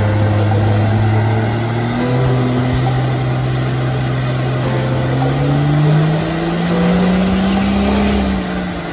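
Twin-turbo Cummins diesel engine making a full-load pull on a chassis dyno. The engine note climbs in steps while a turbo whine rises steadily to a high pitch, and both drop off near the end as the throttle comes off.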